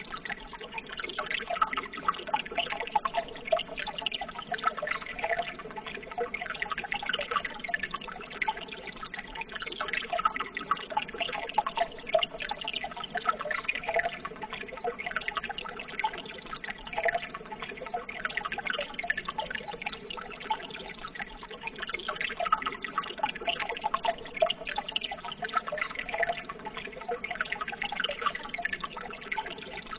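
Running water babbling steadily, with many small splashes and drips.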